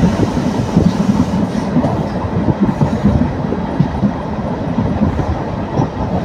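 ICF passenger coach running at speed, heard from its open doorway: a steady rumble of wheels on the track with irregular clickety-clack knocks.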